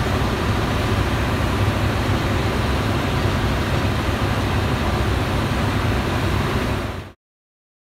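Steady low rumble of a train at a station platform, with no distinct clacks or horn. It cuts off suddenly about seven seconds in.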